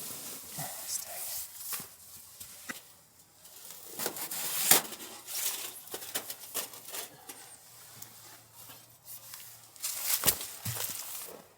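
Irregular clicks, knocks and rustling from things being handled, with a sharp knock about a third of the way in and another near the end.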